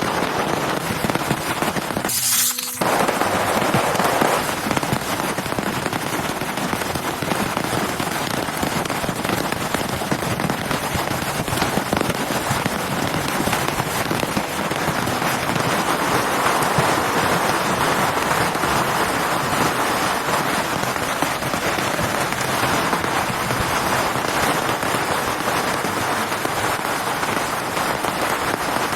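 Heavy rain pattering steadily on a surface, a dense crackle of drops, with a brief break in the sound about two seconds in.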